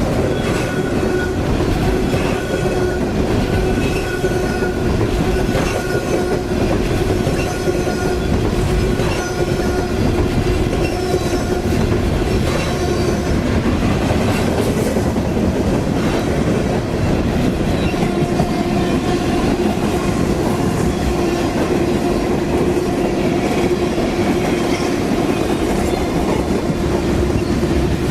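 Freight cars of the CSX Q353 manifest train rolling steadily past. The wheels click over the rail joints, and a steady squealing tone from the wheels runs through the rumble.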